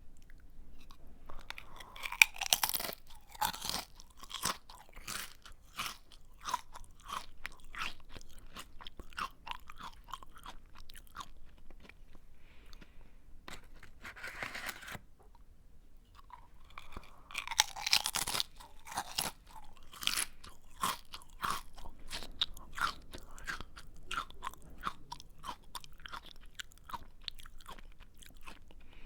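A person biting into a crunchy snack and chewing it with a mouthful of crisp crunches, about two chews a second. A loud bite comes about two seconds in and another around eighteen seconds in, each followed by a run of chewing that grows softer as the snack breaks down.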